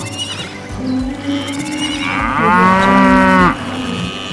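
A cow mooing: one long, drawn-out moo starting a little after two seconds in, which bends up and then down in pitch and cuts off abruptly.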